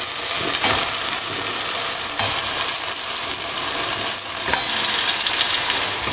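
Hot oil and tomato-spice paste sizzling steadily in a stainless steel pot as raw chicken pieces are laid in, with a few faint knocks.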